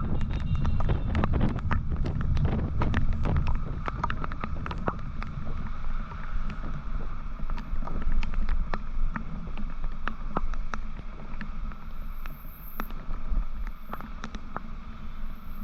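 Motorcycle on the move, heard from the rider's microphone: a steady rumble and wind rush, heavier for the first few seconds, with many scattered sharp ticks.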